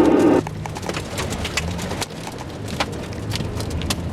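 Hail and rain striking a car, heard from inside as many irregular sharp hits over the vehicle's low running hum. A short car horn blast sounds right at the start.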